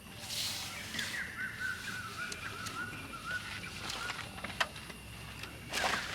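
A bird singing a quick, wavering run of repeated notes, over a faint noisy background. Brief bursts of noise come near the start and near the end, and a single sharp click falls about four and a half seconds in.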